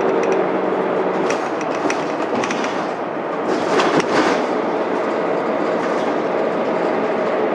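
Mitsubishi Fuso Aerostar bus with a 6M70 diesel engine driving along, heard from inside the cabin: a steady drone of engine and road noise. Light clicking runs through the first three seconds, and a short burst of louder noise comes about four seconds in.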